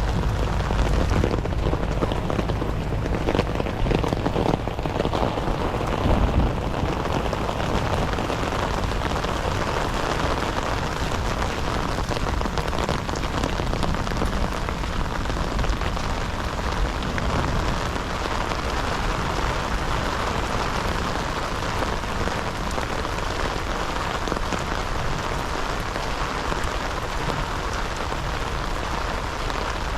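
Heavy rain falling steadily, with a deeper rumble under it for the first several seconds.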